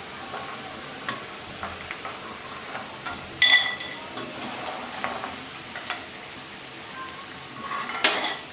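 Colocasia (taro) pieces sizzling in hot oil, with a metal skimmer scraping and clinking against the pan as the fried pieces are scooped out onto a plate. A loud ringing metal clink comes about three and a half seconds in, and more scraping near the end.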